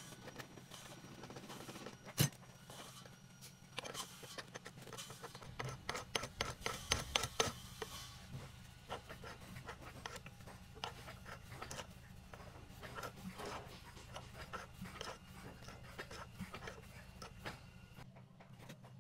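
Irregular light clicks and knocks, with a sharp one about two seconds in and a dense run of them around six to eight seconds, over a steady low hum.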